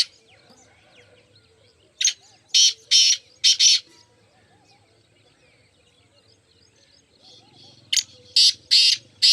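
Black francolin calling: a phrase of four short, harsh, grating notes about two seconds in, repeated near the end.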